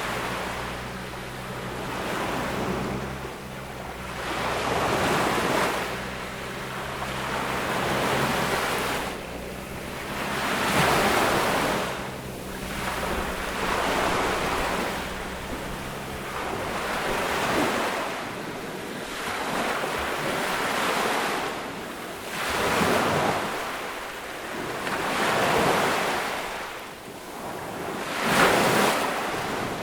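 Small ocean waves washing onto a beach, one swelling and falling about every three seconds. Under the waves a low steady drone runs through the first half and stops about halfway through.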